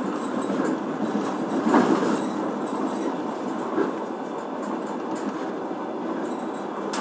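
Passenger train running on the rails, heard from inside the carriage: a steady rumble of wheels and rails, with a louder knock about two seconds in and a smaller one near four seconds.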